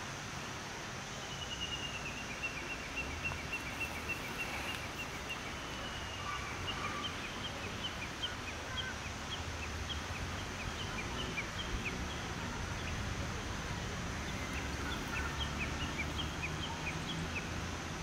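Small birds calling: a high, thin note held for about four seconds, then a long run of short, quick chirps, over a steady low outdoor rumble.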